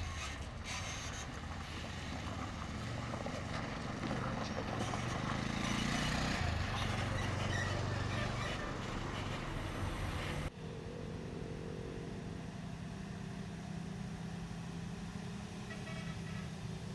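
Heavy lorry engine running, loudest and roughest about six to eight seconds in; an abrupt cut about ten seconds in leaves a steadier, lower engine hum.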